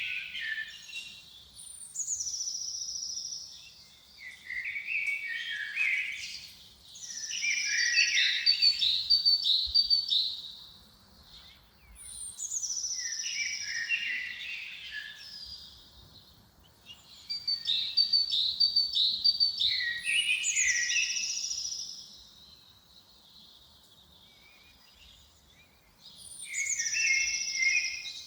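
A songbird singing the same short song phrase over and over, about five times. Each phrase opens with a high, thin whistle, runs into quick chirps and ends in lower, falling notes, with short pauses between phrases and a longer pause near the end.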